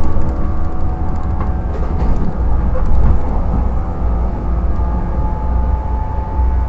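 JR 115 series electric multiple unit running, heard inside a MoHa 114 motor car: a steady low rumble of wheels on rail under the hum of its MT54 traction motors.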